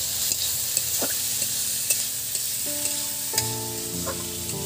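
Chopped onions and tomatoes sizzling in hot oil in a steel wok while a spatula stirs them, scraping and clicking against the pan.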